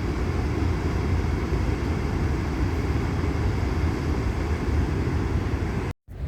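Steady low rushing roar of the Ohiopyle Falls waterfall, cutting out abruptly for a moment near the end.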